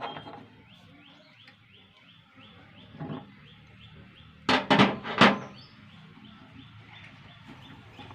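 Three loud, sharp clicks or knocks in quick succession about halfway through, with a smaller one shortly before, over a faint bird chirp repeating about three times a second.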